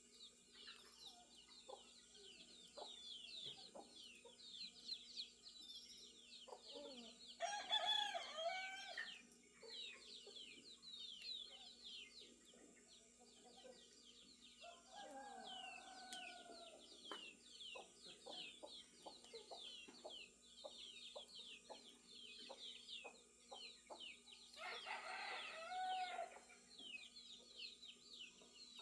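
Farmyard dawn chorus: a rooster crows twice, about eight seconds in and again near the end, with a fainter call in between and a run of short clucks, over steady chirping of small birds.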